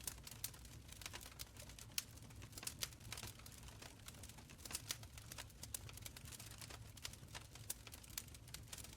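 Wood fire burning in a stone fireplace, crackling with irregular sharp pops and snaps over a low, soft rumble of flames.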